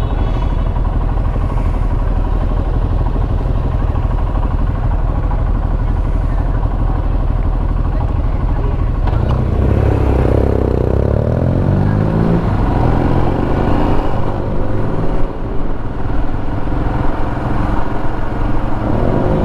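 Royal Enfield Himalayan's single-cylinder engine idling steadily, then revving up and pulling away through the gears about nine seconds in, heard from the rider's own microphone.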